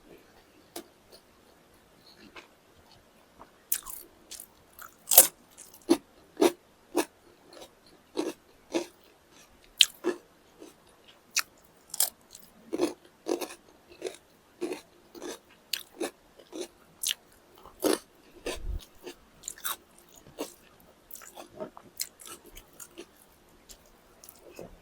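A person eating close to the microphone: irregular crisp crunches and bites with chewing in between, some of them sharp and loud. One dull low bump comes about three quarters of the way through.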